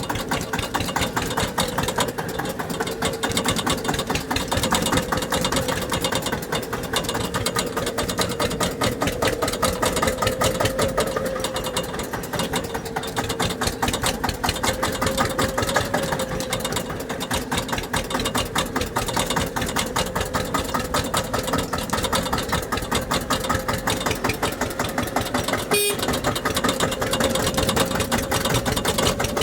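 Tractor engine running steadily at a constant speed, its rapid even firing pulses with a slight wavering in pitch.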